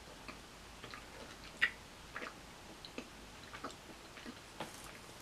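Faint, irregular crunches and clicks of a person chewing a caramel, coconut and almond snack bar.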